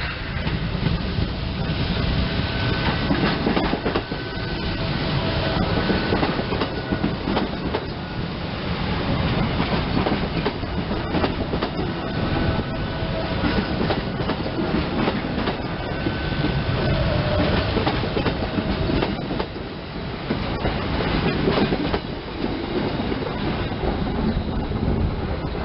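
SEPTA Silverliner electric multiple-unit commuter train running by on the tracks, with steady rolling noise and the clickety-clack of wheels over rail joints. Faint thin tones come and go over the rumble.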